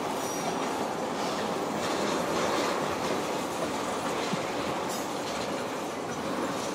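Freight train of tank cars rolling past at a steady speed: a continuous rumble of steel wheels on the rails.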